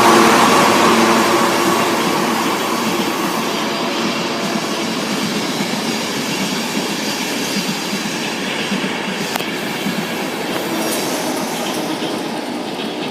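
A train passing along the line, wheels and carriages rattling over the rails. The noise is loudest at the start and fades slowly as the train moves away.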